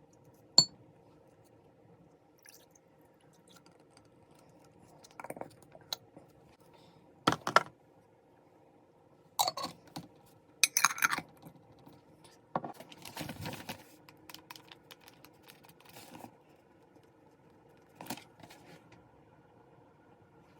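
Small objects being handled and set down: scattered clicks, taps and short clatters over a faint steady hum, the sharpest click about half a second in.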